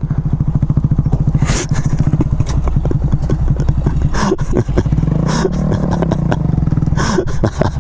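Motorcycle engine running on the road, a steady low rumble with dense pulsing; about five seconds in, a pitch rises and falls once.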